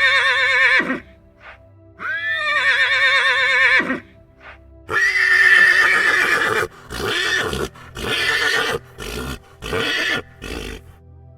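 Horse whinnying: two high, wavering neighs about two seconds apart, then a longer, rougher neigh and a run of about five short whinny bursts, over soft background music.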